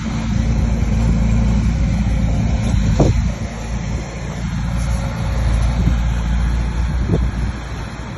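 Bulldozer's heavy diesel engine running, with a sharp metallic knock about three seconds in. The engine eases off briefly after the knock, then comes back up.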